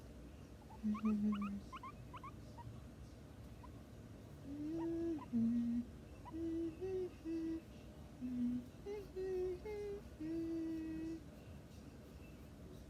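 A person humming a short tune in a string of held notes, with a few faint quick squeaks about a second or two in.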